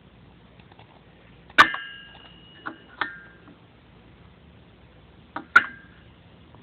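Sharp metallic clinks, each ringing briefly, as small metal engine parts are handled and knocked together. A loud clink comes about one and a half seconds in, two lighter ones follow soon after, and a quick double clink comes near the end.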